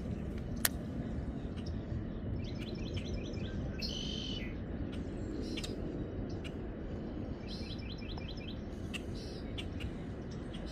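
A songbird singing a repeated phrase twice: a quick run of short chirps followed by a held, higher note. Under it runs a steady low rumble, and there is one sharp click about half a second in.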